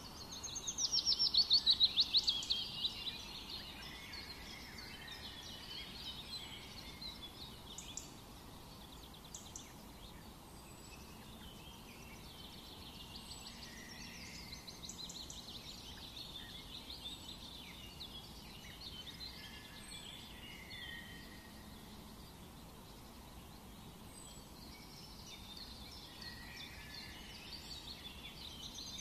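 Songbirds chirping and trilling, with a loud rapid trill falling in pitch near the start and softer chirps and trills through the rest.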